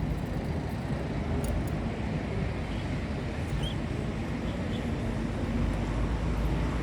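Steady low background rumble, with one faint short chirp a little under four seconds in.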